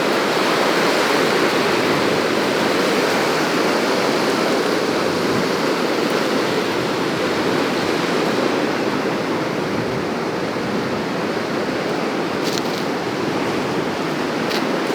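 Ocean surf washing steadily on the shore, a little louder in the first half, with two faint clicks near the end.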